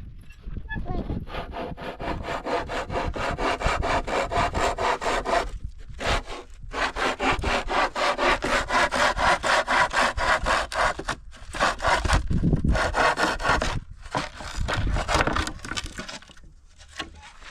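Hand saw cutting through wood in steady back-and-forth strokes, with a few short pauses, until it stops near the end.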